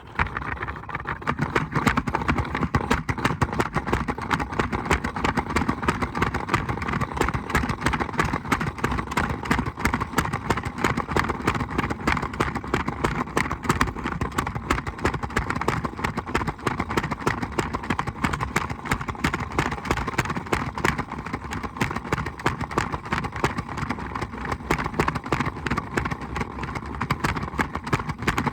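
Washing machine running, with a continuous rapid rattling clatter.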